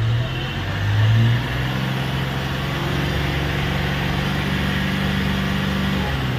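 Mahindra Bolero Power Plus's three-cylinder mHawk diesel, heard from inside the cabin, given a little throttle: it rises about a second in and holds a steady raised speed, then drops away near the end. The engine has a fault that brings on the check-engine light and makes it cut out when revved; the scan later shows fuel-rail-pressure / metering-unit fault codes.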